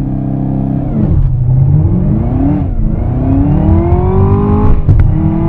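Camaro ZL1's supercharged 6.2-litre V8 held at launch-control revs, then dropping about a second in as the clutch is let out, with the rear tyres spinning too much off the line. The revs waver, then climb hard under full throttle. Near the end a sharp crack comes at a no-lift shift, and the revs pick up again in the next gear.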